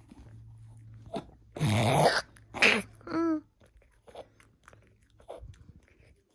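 Small Pomchi dog reverse sneezing: a loud, rough gasp lasting about half a second, a second shorter one just after, then a brief pitched sound. This is the breathing episode that the owner first feared was tracheal collapse and, from this footage, confirmed as reverse sneezing.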